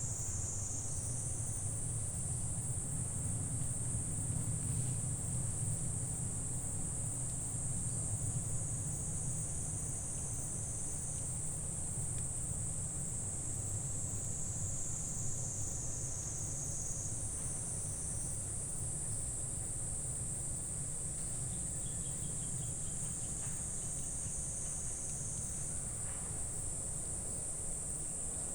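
Insects chirring in a steady high drone that shifts and swells every several seconds, over a steady low rumble.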